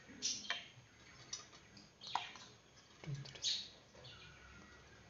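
Birds chirping faintly in the background: short high chirps, a few of them sweeping down in pitch, about five times.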